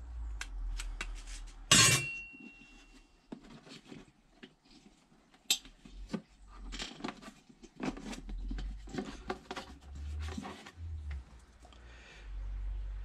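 Metal clinks and knocks from tools and parts being handled, with one sharp metallic clank about two seconds in that rings briefly.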